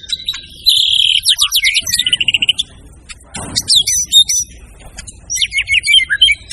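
White-rumped shama (murai batu) singing a loud, varied song: fast runs of repeated whistled notes and trills, with a short lull about halfway through.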